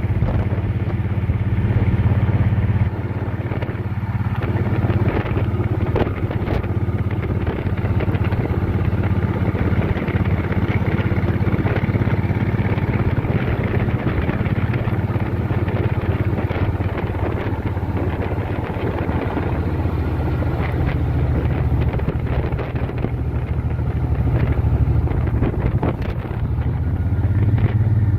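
Motorcycle engine running steadily under way, with a slight swell in level near the end.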